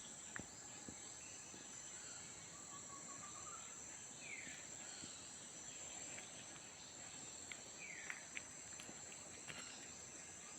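Faint outdoor morning ambience: a steady high insect drone, with a few short bird chirps over it, two of them quick falling notes about four and eight seconds in.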